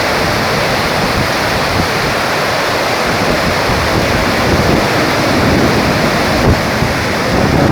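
Heavy rain pouring down, a loud, steady rush of water noise.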